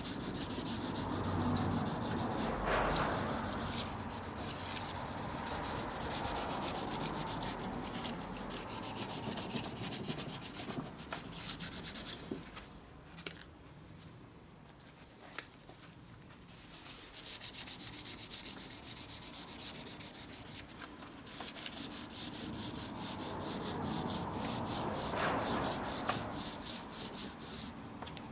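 Rust being scrubbed off metal lathe parts by hand with an abrasive, in fast back-and-forth rubbing strokes, with a lull about halfway through.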